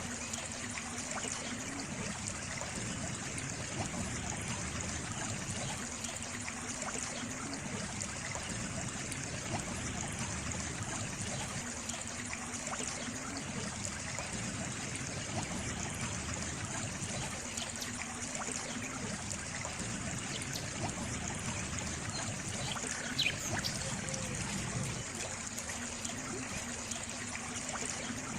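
Water trickling steadily, like a small stream running over stones. A single short high chirp sounds about three-quarters of the way through.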